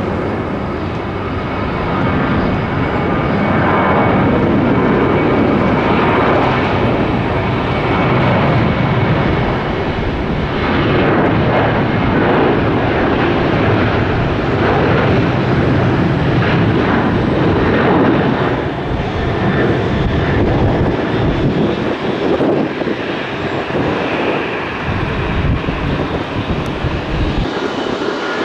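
Airliner's engines as the plane passes close by on the runway or overhead: a loud, dense rumble that builds in the first couple of seconds, holds for a long stretch, then eases off in the last third.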